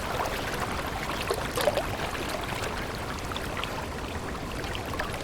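A small stream running steadily: a continuous wash of water with many small, quick splashes and bubbles.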